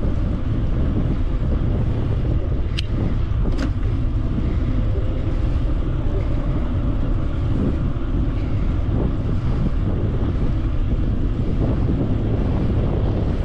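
Wind buffeting the microphone of a moving e-bike, a loud steady low rumble, with two sharp clicks a little under a second apart about three seconds in.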